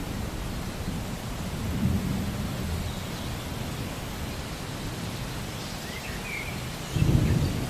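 Steady rain with low rumbles of thunder; a louder rumble starts near the end.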